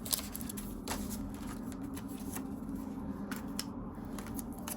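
Paper cash bills being handled and rustled, with scattered light clicks and crinkles, over a steady low hum.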